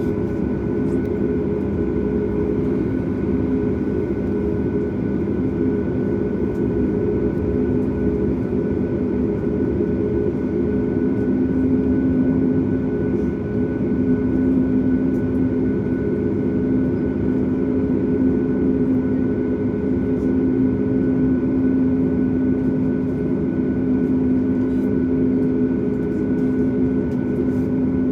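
Cabin noise inside a Boeing 737 MAX with its CFM LEAP-1B engines running at low power on the ground: a steady hum with several steady tones laid over it.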